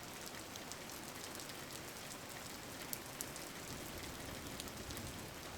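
Rain falling steadily, an even patter with a few individual drops ticking out now and then.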